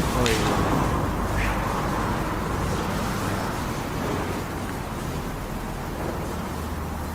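Steady rumbling hiss of a handheld camera's field recording, with a sharp click just after the start and a softer tap about a second and a half in.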